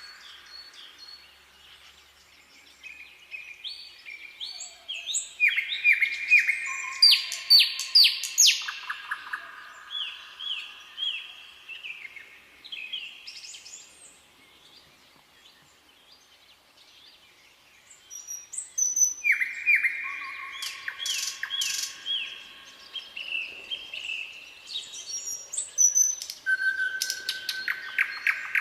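Songbirds singing in a forest: rapid runs of short, repeated chirping notes, busiest in two spells with a quieter lull in the middle.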